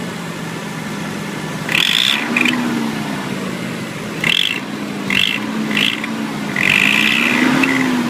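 Nissan 300ZX twin-turbo's V6 engine running at idle, its speed rising slightly twice, with short high-pitched rattling sounds several times over it. The rattle comes from behind the engine on the driver's side and its cause is unknown.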